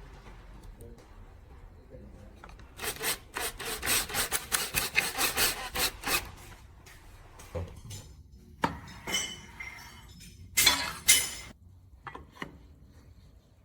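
A hand tool worked back and forth on wood in quick strokes, about four a second, for about three seconds, followed by a few scattered knocks and clinks.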